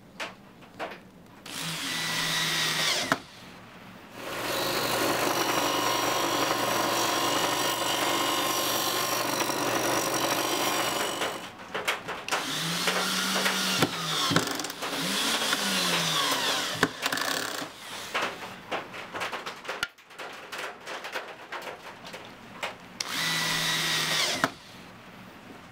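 Handheld power drill running in bursts: a short run, a long steady run of about seven seconds, then runs where its speed rises and falls, and one more short run near the end. Small knocks and clicks come between the runs.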